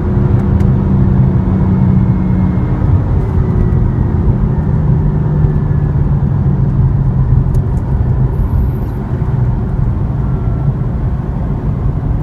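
BMW M4's 3-litre twin-turbo inline-six running under way with road noise, heard from the moving car; its engine note steps down about three seconds in and then holds steady.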